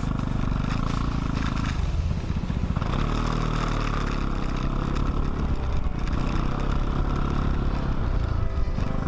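Vespa GTS 300's single-cylinder four-stroke engine running through a new Euro 4 Akrapovic exhaust, its note shifting about two to three seconds in and then holding steady.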